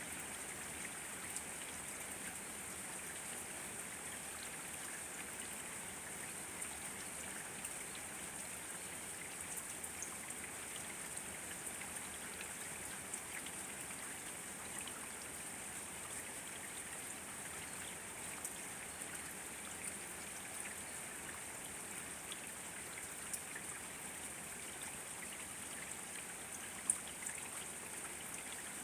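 Steady rain falling, an even hiss with scattered drop ticks, one sharper drop about 27 seconds in.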